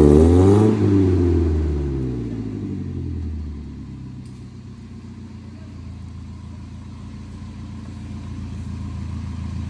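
Off-road 4x4 vehicle's engine revving hard, its pitch rising and falling, then easing over a few seconds to a lower, steady run that builds slightly again near the end.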